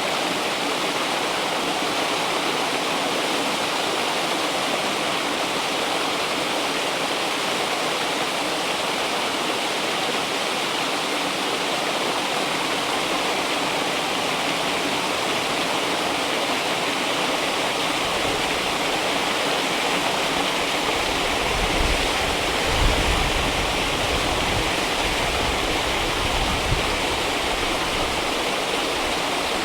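River water flowing steadily, a continuous rushing. A low rumble comes in past the middle, with a couple of soft bumps, and fades before the end.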